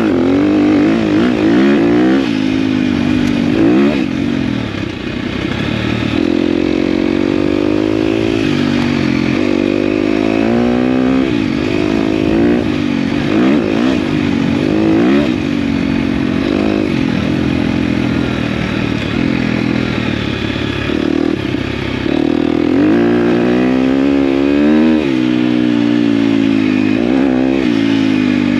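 KTM dirt bike engine being ridden off-road, its pitch climbing and dropping again and again as the throttle is opened and shut.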